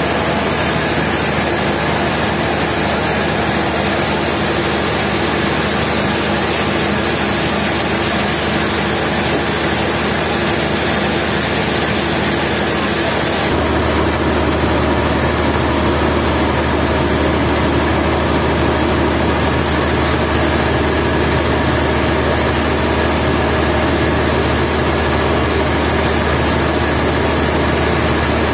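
Sawmill engine running steadily, with an abrupt change in its tone about halfway through.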